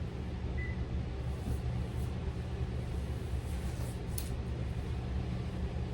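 Steady low rumble of background room noise, with a couple of faint clicks about two and four seconds in.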